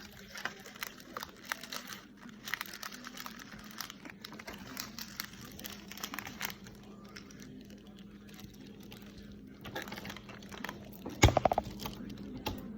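Plastic crinkling and rustling with scattered small clicks and taps as slime-kit packets and plastic are handled, with one brief louder sound about eleven seconds in.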